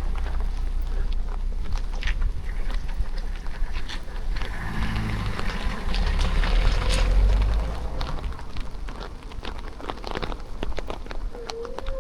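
Steady rain falling, with many sharp drop ticks close by. A low rumble swells about halfway through and fades a few seconds later.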